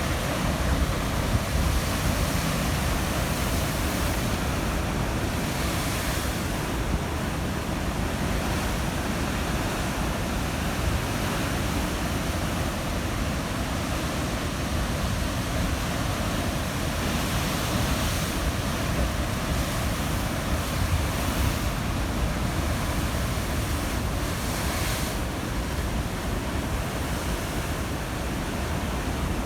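Atlantic surf crashing on a rocky shore, a steady rumble with waves breaking into brighter hiss every few seconds, along with wind buffeting the microphone.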